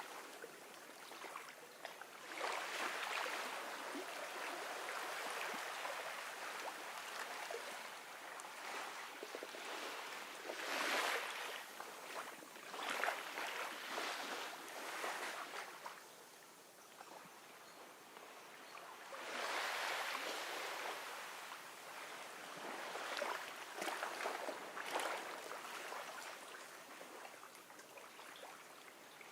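Gentle ocean waves washing ashore: a soft hiss of water that swells and falls away in several surges a few seconds apart, with no deep rumble.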